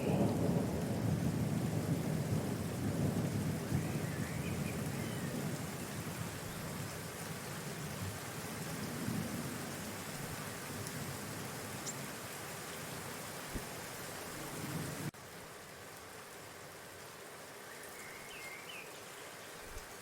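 Outdoor ambient noise: a low, fluctuating rumble with a rain-like hiss that fades and then drops suddenly about fifteen seconds in. A few faint bird chirps come through, near the start, about halfway and near the end.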